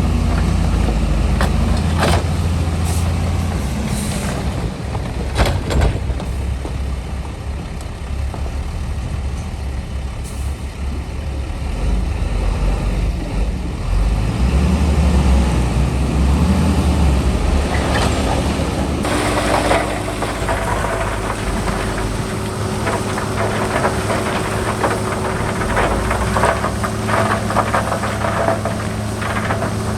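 Heavy diesel engines of earthmoving machines, a dump truck and a bulldozer, running under load, with a couple of sharp knocks in the first few seconds. From about two-thirds in a dense rattling, crackling noise joins the engine sound.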